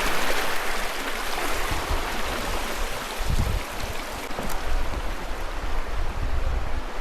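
Stream water rushing and splashing over rocks, a steady hiss, with a low rumble coming and going from about three seconds in.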